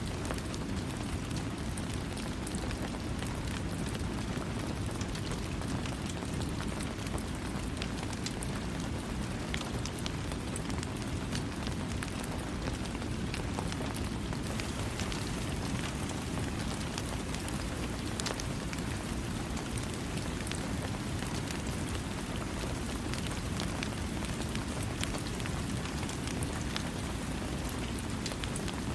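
Steady rain falling on a surface, a continuous dense hiss with fine, scattered drop ticks and no thunder.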